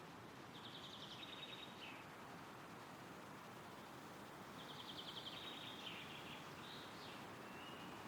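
Faint, steady rush of wind through forest trees, with a small songbird singing two short trilled song phrases about four seconds apart.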